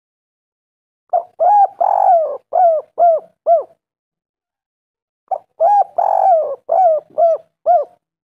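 Spotted dove (tekukur) cooing: two song phrases about four seconds apart. Each is a quick string of short, hooting coos built around one longer, rougher middle note. It is the male's call to a female.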